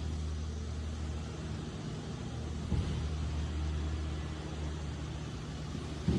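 A steady low mechanical hum of a running motor, with a couple of faint knocks, one about three seconds in and one near the end.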